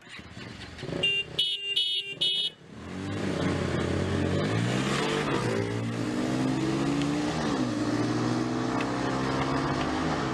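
A few short high beeps, then from about three seconds in a single-cylinder sport motorcycle engine running, its pitch rising as it revs and dropping back about halfway through before holding steady.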